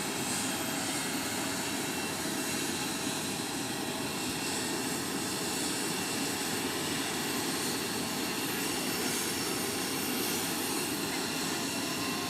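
Airplane engine noise, a steady rushing sound at an even level.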